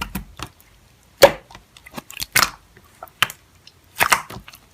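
Slime being pressed and popped: a string of sharp, irregular clicks and pops, the loudest about a second in.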